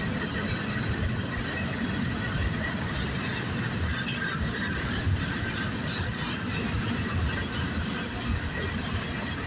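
Norfolk Southern freight train rolling past: a steady rumble of railcars on the track, with scattered wheel clicks.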